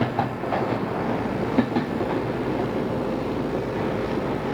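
Odakyu 2600-series electric train running at speed, heard from inside the car as a steady rumble of wheels and running gear. A few sharp clacks of the wheels passing rail joints come through, the loudest about one and a half seconds in.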